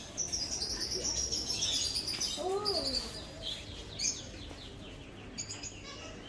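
Caged small birds chirping and twittering, many short high calls overlapping, busiest in the first half, with one brief lower rising-and-falling call about two and a half seconds in.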